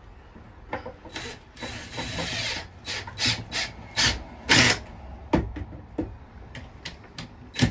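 Hand work fitting hardware: a scraping rub lasting about a second, then a run of sharp knocks and clicks at uneven spacing.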